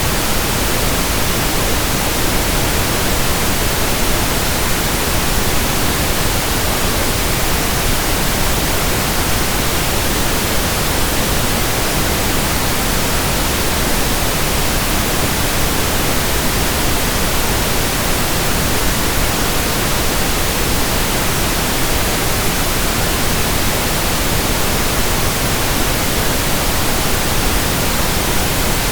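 Steady, unchanging pink noise: an even hiss across the whole range of pitch.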